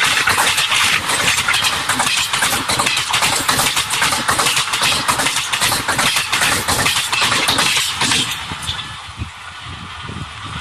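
Passenger coaches of an Indian Railways express rushing past close by, with a steady rush of noise and rapid clattering of the wheels over the rail joints. About eight seconds in, the sound drops sharply to a much quieter level.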